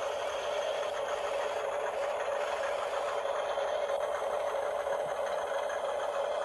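Radio-controlled model excavator's electric motors and gears running with a steady whine.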